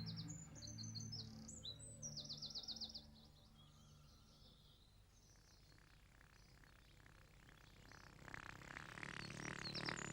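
Faint birdsong: quick high chirps and a rapid trill in the first few seconds, then near quiet, then birds chirping again over a soft pulsing sound that grows louder near the end.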